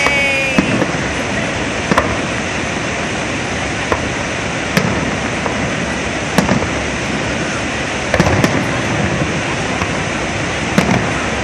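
Aerial fireworks shells bursting, sharp bangs coming irregularly every second or two, with a quick cluster of three about eight seconds in, over a steady rushing noise.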